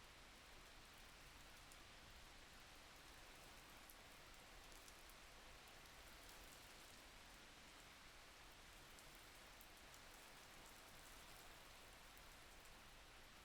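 Faint, steady rain falling, with a soft even hiss and many small scattered drop ticks.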